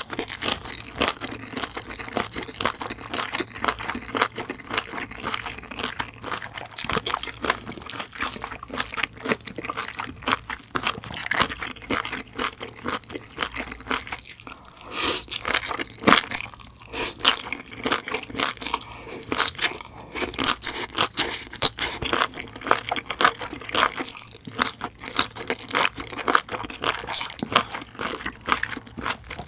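Close-miked mukbang chewing: crunchy, wet chewing of kimchi stew and stir-fried seaweed stems, a rapid uneven crackle of bites with a short lull midway.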